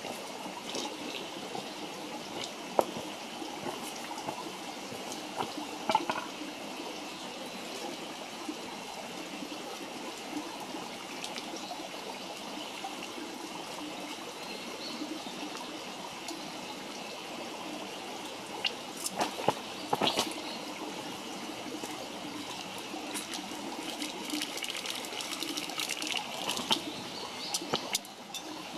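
A wood campfire crackling, with scattered sharp pops that cluster near the middle and toward the end, over a steady trickling rush of running water.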